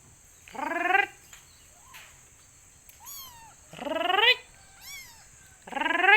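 A cat meowing three times, each meow rising in pitch, with fainter, higher falling calls in between.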